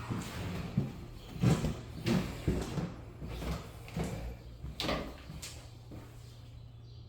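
A string of irregular knocks and thumps, about half a dozen over five seconds, over a low steady hum.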